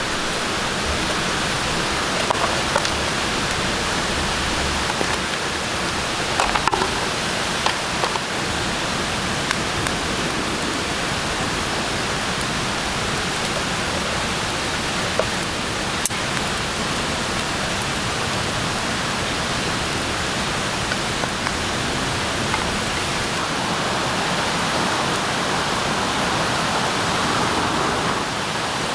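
Steady, even hiss with a few faint clicks scattered through it.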